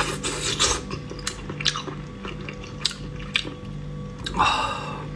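Close-up chewing and biting: wet mouth clicks and smacks scattered through, with two short rushing noises, one near the start and one about four and a half seconds in.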